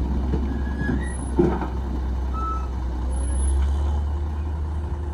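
Heavy diesel construction machinery running with a steady deep rumble. A sharp knock comes about a second and a half in, and a few short high squeaks or tones are heard here and there.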